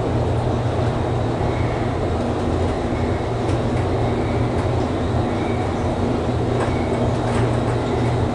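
Inclined elevator car travelling along its sloped track, giving a steady low rumble with faint high squeals that come and go and a few light clicks.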